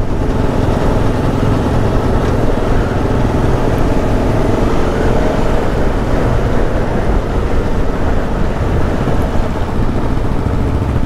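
The Aprilia Tuono V4 1100's V4 engine running steadily, with no revving up or down.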